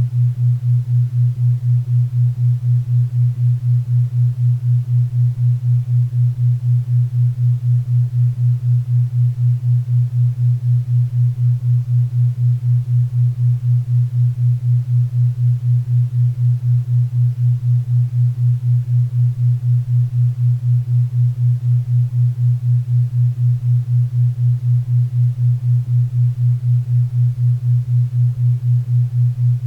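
Low steady tone, about 120 Hz, pulsing on and off four times a second: a 4 Hz theta-wave tone, with faint pink and brown noise beneath it.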